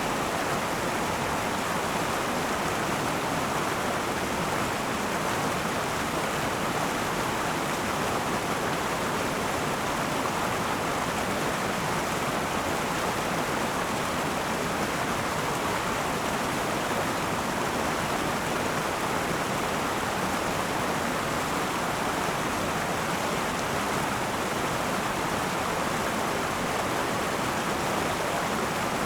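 Akan River flowing, a steady rushing of water over rocks, unbroken and even throughout.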